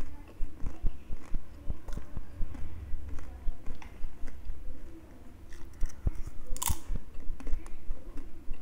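Close-up chewing of crunchy fried snacks: a steady run of crisp crunches with each bite and chew. There is a short quieter lull just past halfway and a sharper, louder crackle about two-thirds of the way through.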